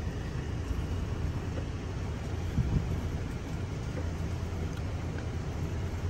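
Steady low rumble of an idling vehicle engine, heard inside the cab, with a brief louder bump about two and a half seconds in.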